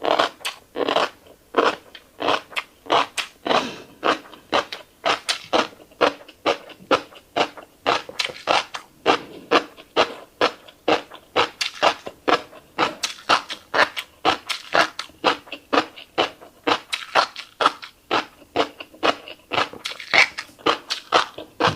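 Close-miked chewing of fish roe: a quick, steady run of wet pops and crunches, about two or three a second.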